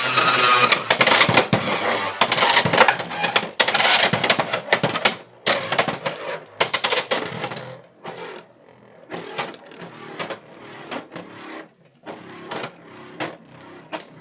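Beyblade X Fox Brush J9-70 Gear Rush spinning in a plastic stadium. It makes a dense, loud clattering scrape for about five seconds, then goes on with scattered clicks and knocks that fade as the top slows down.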